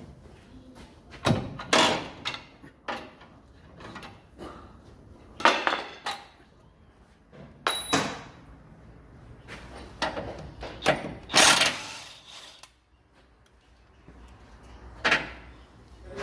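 Hand tools and metal parts clanking and scraping now and then during work under a vehicle, about eight separate knocks with short pauses between them, one leaving a brief metallic ring about eight seconds in.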